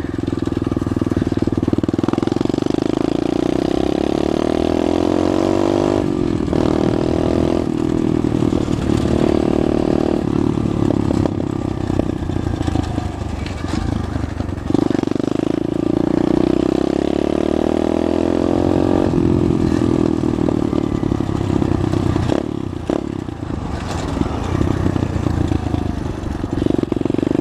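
SSR pit bike's small four-stroke single-cylinder engine running while riding, its revs rising and falling and dropping off sharply several times as the throttle and gears change.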